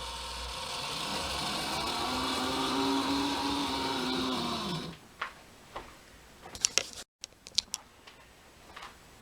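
Hornby Dublo Class R1 model locomotive's electric motor running with a steady whine under its train of tank wagons. Its pitch drops and it stops about five seconds in, followed by a few sharp clicks.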